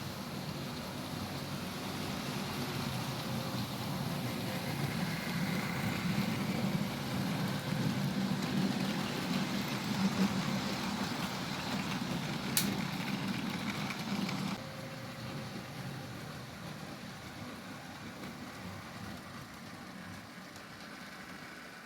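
Bachmann Class 47 model locomotive running on its track: a steady whirr of the small electric motor and wheels on rail. It grows louder towards the middle, with one sharp click a little past halfway, then drops and fades away.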